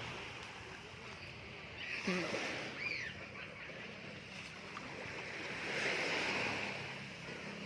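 Sea waves washing into the shallows, swelling about six seconds in. Brief high children's cries come around two and three seconds in, and a low steady hum starts about three seconds in.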